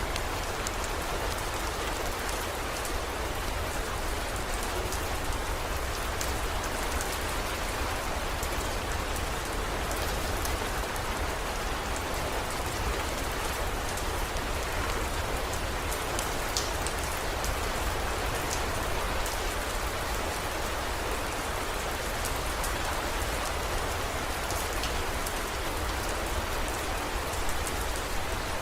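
Heavy rain falling steadily, a dense even hiss with scattered fine drop ticks and a steady low rumble underneath.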